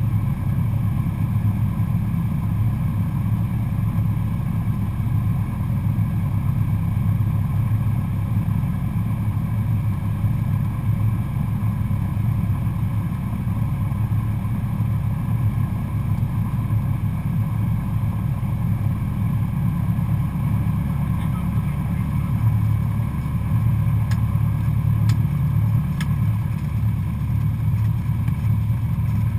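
The four-cylinder Lycoming engine and propeller of a Cessna 172SP Skyhawk running steadily in flight, a constant low drone.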